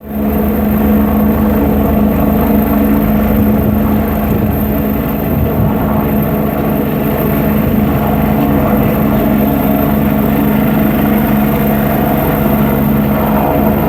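AgustaWestland AW109 helicopter's rotor and turbine engines running: a loud, steady hum with a fast flutter.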